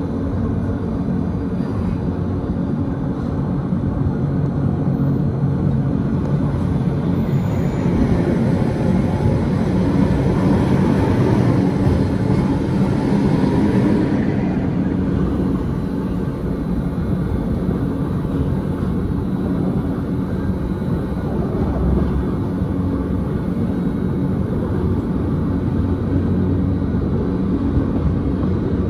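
Electric rack-railway train running uphill, heard from on board: a steady low hum from the drive, with the rumble of wheels on the track. A broader rushing noise swells for several seconds about a third of the way in, then eases off.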